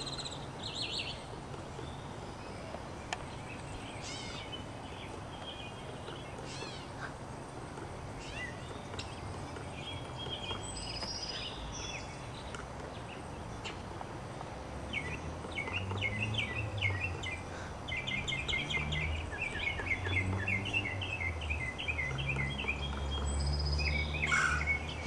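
Woodpecker calling: scattered chirps, then from about fifteen seconds in a long run of short, rapid, repeated notes, with other birdsong around it.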